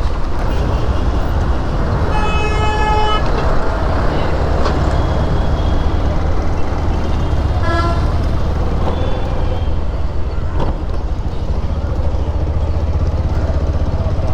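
Motorcycle riding through traffic with a steady low rumble of engine and road noise; a vehicle horn sounds for about a second about two seconds in, and a second, shorter honk comes about halfway through.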